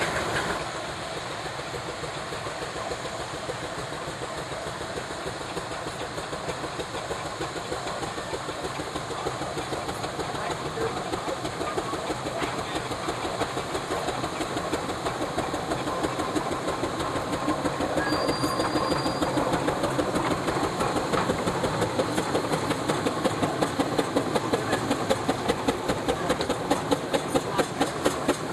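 Steam traction engine chuffing, its exhaust beats growing louder as it draws closer, at about three or four beats a second near the end.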